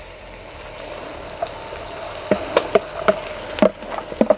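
Onions and cabbage sizzling in butter and olive oil in a cast-iron pot, a steady hiss with sharp crackles and pops coming more often in the second half.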